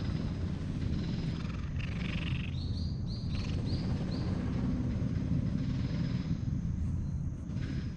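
Steady low rumble, with a quick run of about six short high chirps from a bird between two and four and a half seconds in.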